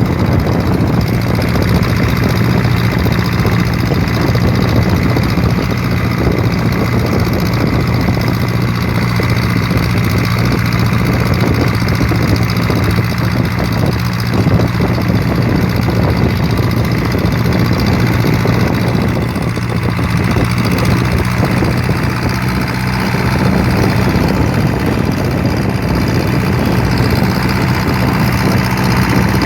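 An engine idling steadily, a low even hum that holds throughout.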